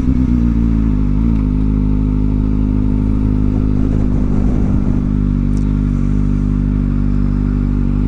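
Kawasaki Ninja ZX-4R's inline-four engine through a new aftermarket exhaust: engine speed drops in the first second, then it runs at a steady low speed.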